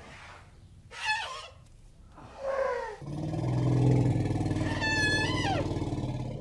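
Elephant calls: a few short falling squeals, then from about halfway a loud, long low rumbling roar with a high trumpet call sliding down near the end.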